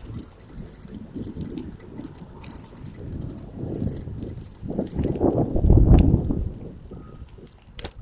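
Bicycle being ridden with the phone mounted on it: an uneven low rumble of the ride with light rattling, growing louder about five to six seconds in, and a sharp click near the end.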